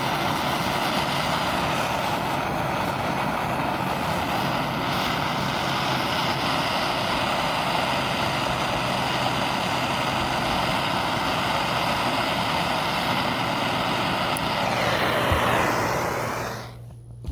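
Handheld gas torch burning with a steady roaring hiss as it heats the metal around a seized screw to free it. The flame is shut off near the end and the hiss falls away and stops.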